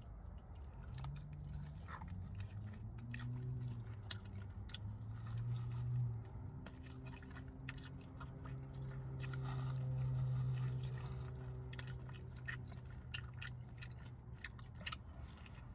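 Close-miked biting and chewing of fried barbecue chicken wings, with many sharp crunches and wet clicks throughout. A low steady hum runs underneath for most of the time.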